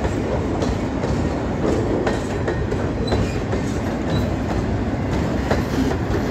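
Steel freight train rolling past, its wheels clacking over the rail joints above a steady running rumble.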